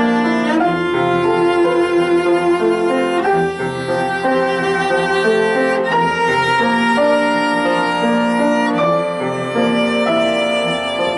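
Violin playing a melody of held notes over piano accompaniment.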